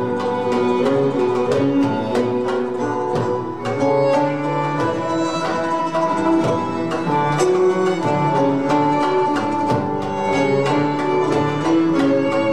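Instrumental music played by an ensemble of violins and plucked string instruments, a flowing melody with many quick plucked notes and no voice.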